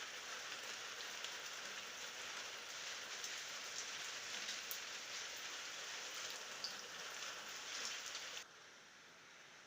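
Steady night rain with no thunder, with scattered louder drops ticking through it. About eight and a half seconds in it cuts off suddenly, leaving only a faint hiss.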